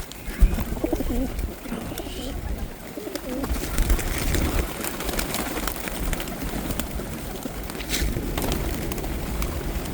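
A flock of pigeons cooing, many birds at once, with scattered short clicks through it.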